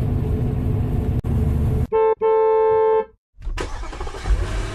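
Car horn honking, a brief toot then a longer one of about a second, after a steady car rumble. The sound cuts off suddenly, and a different steady background with a slowly falling tone follows.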